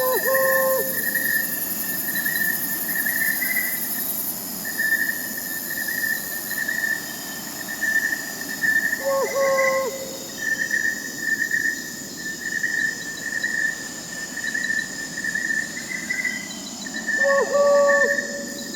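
Crickets chirring steadily, with an owl calling three times, about eight to nine seconds apart.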